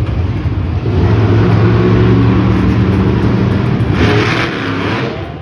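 Monster truck engine running hard at steady high revs, then easing off near the end, with a short burst of noise about four seconds in.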